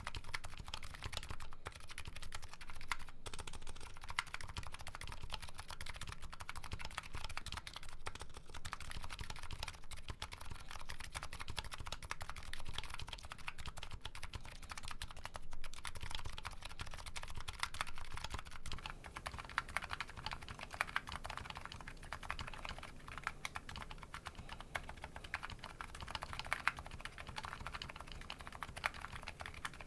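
Continuous fast typing on a Nuxros Kraze custom keyboard with MetaKeebs electrocapacitive (EC) switches and JCS keycaps: a steady stream of key clicks. A little over halfway through, the clicks turn brighter as the recording switches to a different microphone.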